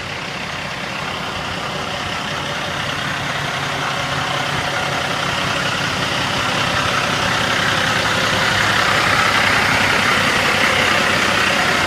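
Cummins ISX inline-six diesel in a dump truck idling steadily, gradually growing louder.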